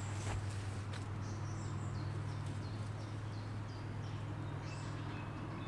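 A small songbird calling in the forest, a run of short, high, downward-sliding chirps repeated every half second or so, over a steady low hum. A few brief rustles or clicks at the very start.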